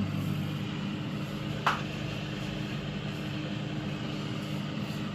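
Microwave oven running: a steady hum with fan noise while it heats the palkova mixture on its first two-minute cycle, with a brief high chirp about a second and a half in.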